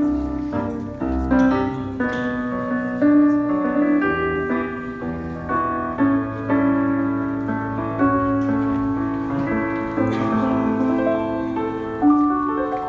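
Piano playing a slow passage of held chords and melody notes.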